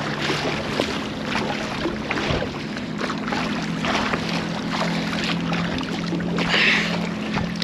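Choppy water splashing and slapping against a kayak as it is paddled across a rough river crossing, with irregular splashes. A steady low hum runs underneath.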